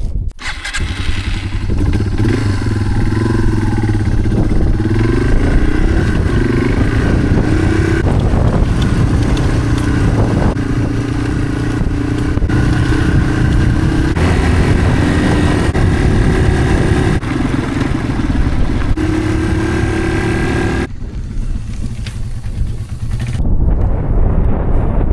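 Motorcycle engine running while being ridden, its pitch rising and stepping with throttle and gear changes. About twenty seconds in, the engine note drops back, leaving a duller rushing noise.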